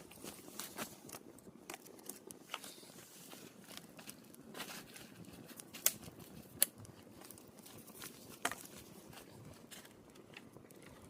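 Wood campfire crackling, with irregular snaps and pops over a soft steady rush. The loudest are two sharp pops a little past halfway, under a second apart, and another shortly after.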